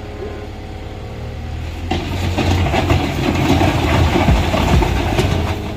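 Bulldozer's diesel engine running steadily, then louder and rougher from about two seconds in, with metallic clanking and rattling over a deep rumble.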